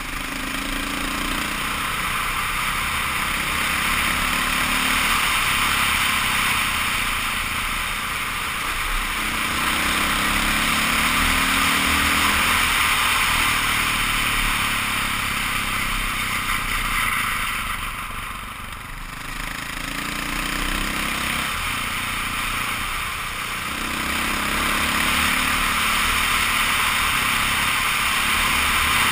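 KTM 530 EXC dirt bike's single-cylinder four-stroke engine running while riding, its pitch rising and falling in several swells with the throttle and easing off briefly a little past the middle. It is half-buried under a steady rush of wind on the helmet camera.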